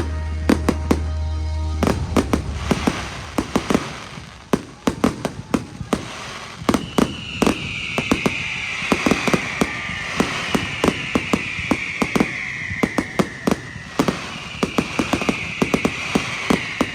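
Fireworks display: a rapid, dense run of bangs and crackling reports, with long hissing whistles that slowly fall in pitch from about seven seconds in. Music plays for the first two seconds.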